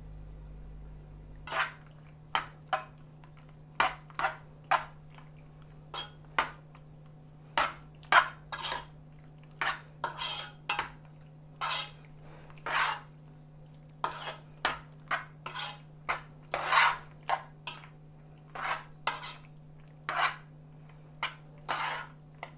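A utensil stirring and scraping macaroni mixed with mayonnaise in a dish, in quick irregular strokes, some of them clinking against the dish.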